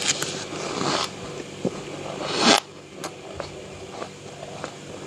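Frost being scraped: a long scrape in the first second, then a louder scrape that builds and cuts off sharply at about two and a half seconds, followed by scattered light crackles and clicks.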